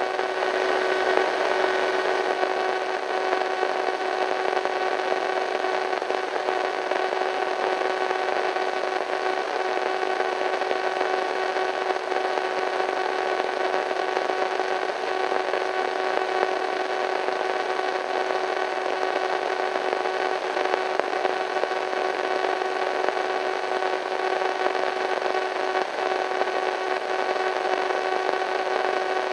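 Radio static: a steady hiss of white noise with several faint steady hum tones running through it, unchanging throughout.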